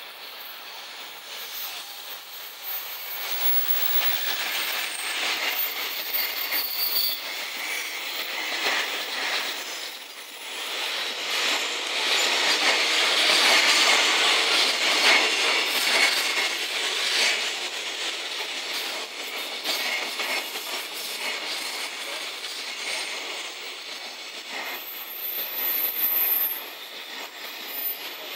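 Container freight train hauled by an EF210 electric locomotive passing close by. After the locomotive goes by, the container flat wagons roll past with their wheels clattering and squealing on the rails. It builds up over the first few seconds and is loudest about halfway through.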